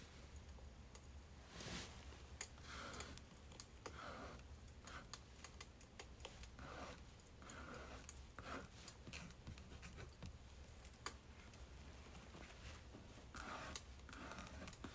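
Quiet crackling of burning birch wood: irregular sharp snaps and ticks, several a second, over a low steady hum.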